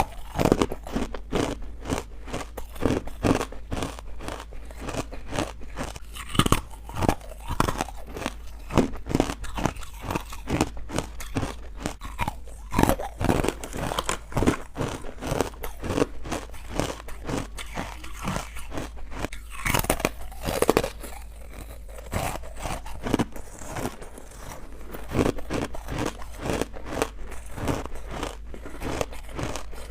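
Someone chewing crunchy carbonated white ice bites, a rapid, uneven run of crunches with a few louder bites mixed in.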